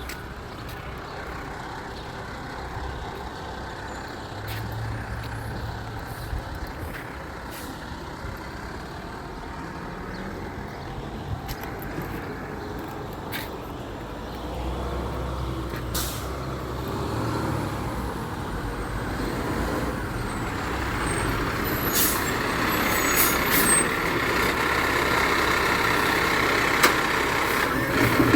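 Garbage truck running and drawing closer, its engine noise growing steadily louder through the second half, with a few sharp clacks near the end.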